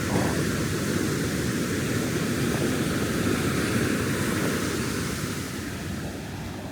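Ocean surf breaking and washing up a sandy beach, a steady rushing noise that eases off after about five seconds.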